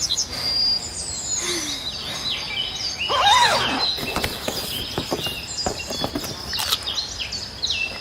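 Several birds chirping and trilling over a soft outdoor background, with one lower call rising and falling a little past three seconds in.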